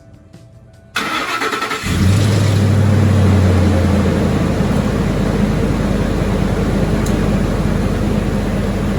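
Ford F-150 engine cranked by its starter about a second in, catching a second later and running at a fast idle that settles into a steady idle. It is the first start after new ignition coil packs were fitted.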